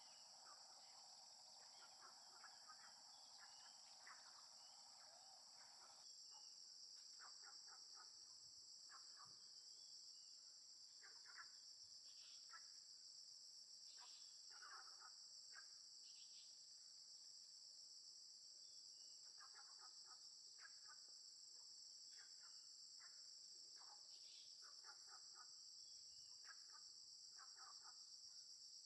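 Faint, steady high-pitched drone of insects, with short bird chirps scattered throughout.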